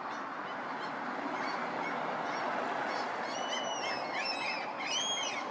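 Common gulls calling, a run of short, high, arched calls that starts about halfway through and repeats rapidly, over a steady hum of city background noise.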